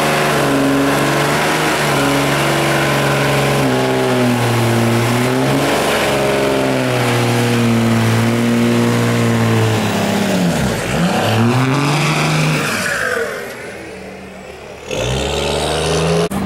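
A truck's engine revving hard and held at high revs during a burnout, over a steady hiss. About ten seconds in the revs drop sharply and climb again. The engine then eases off and quietens, and it cuts back in loud near the end.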